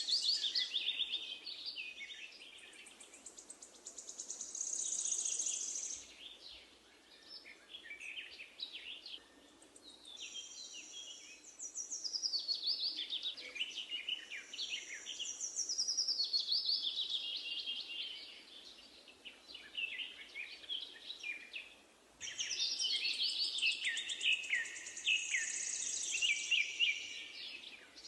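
Songbirds singing: long phrases of rapid chirps and trills lasting several seconds each, with short pauses between them, over a faint steady outdoor hiss.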